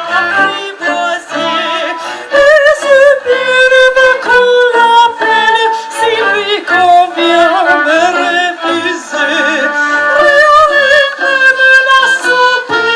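Classical singing with strong vibrato over a symphonic ensemble with bowed strings, at concert volume.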